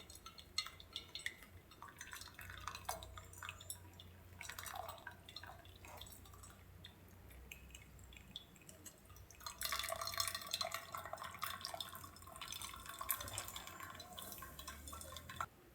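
Liquid dripping and trickling with small scattered clicks. About ten seconds in it becomes a denser, steady splashing that stops abruptly near the end.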